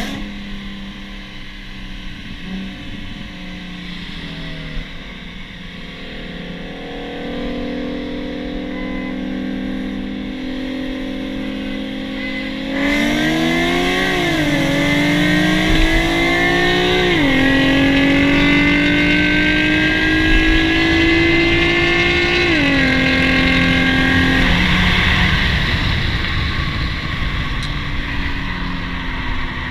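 Nissan Z with a full ISR exhaust and Y-pipe, engine pulling gently at first, then about halfway through accelerating hard, its pitch climbing through the gears and dropping at each of three shifts before it eases off and settles.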